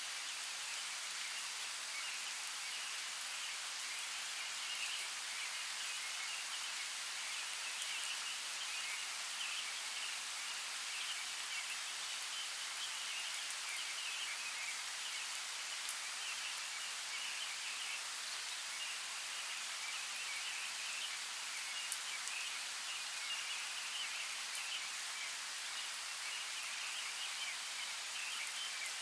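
Steady rain falling, an even hiss of drops with a few sharper single drips standing out.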